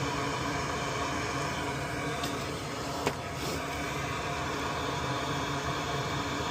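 Small electric blower fan running steadily with a low hum, and a single light click about three seconds in.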